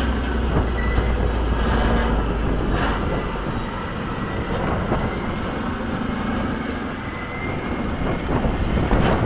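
Heavy diesel earthmoving machinery running steadily with a deep low rumble, wind noise mixed in.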